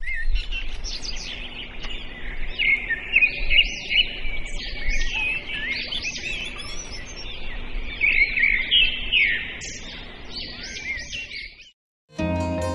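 Many small birds chirping and twittering at once, with quick overlapping calls. The birdsong cuts off near the end and plucked-string music begins.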